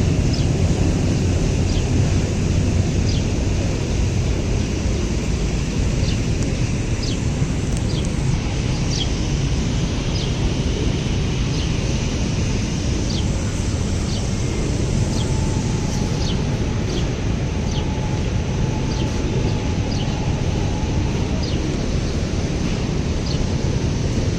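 Wind buffeting the microphone in a steady low rumble, with short high chirps about once a second throughout.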